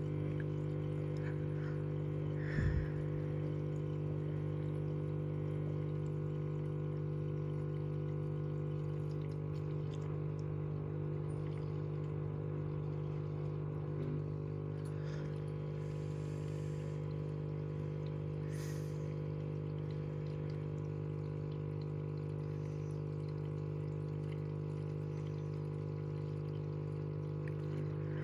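Washing machine running on a wash for bedding, with water pouring and trickling and a steady hum throughout. There is a short thump about two and a half seconds in.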